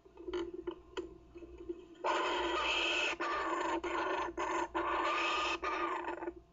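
Kookaburra chick giving a loud, harsh, raspy call for about four seconds, broken by several short gaps, starting about two seconds in. A few faint clicks come before it.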